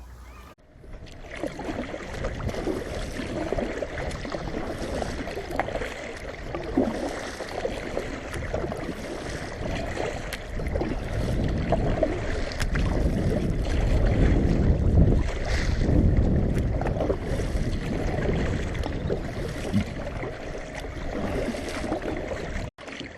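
Kayak paddling on a river: paddle blades splashing and dripping with repeated strokes, over heavy wind buffeting the microphone.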